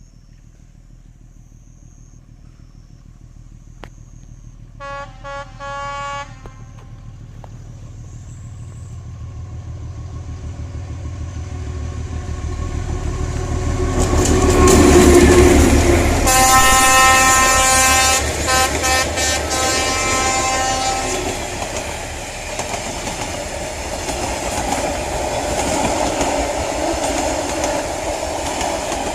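A D12E diesel-electric locomotive approaching and passing with a passenger train. Its horn gives a few quick short toots, then the engine's rumble grows to its loudest as it goes by, with a longer, broken horn blast. After that the coaches roll past with a steady clatter of wheels on rail joints.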